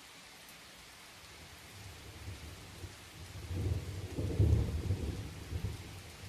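Steady rain with a roll of thunder that builds about two seconds in, is loudest around the middle and rumbles away toward the end.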